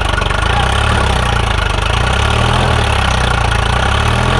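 Swaraj 744 FE tractor's three-cylinder diesel engine running steadily and loudly with an even, rapid firing pulse.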